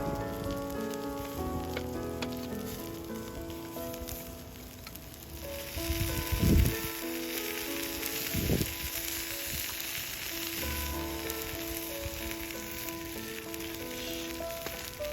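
Food sizzling as it cooks over a campfire, the hiss growing stronger about a third of the way in, with two dull thumps a couple of seconds apart. Soft instrumental background music plays throughout.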